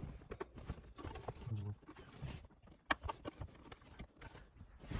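Scattered clicks and light knocks of a trim clip and parts being worked loose by hand during a shifter install, with one sharp click about three seconds in.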